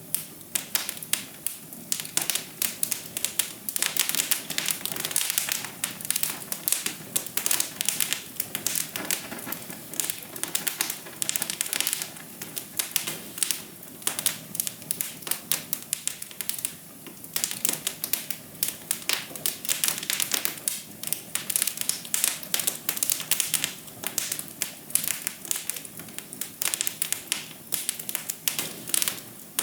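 Wood fire crackling in a fireplace: a steady stream of quick, irregular pops and snaps over a soft hiss.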